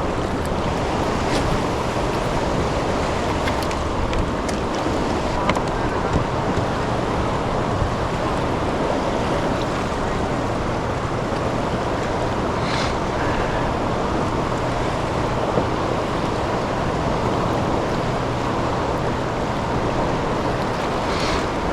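Steady rushing of fast river current below a dam, with wind on the microphone.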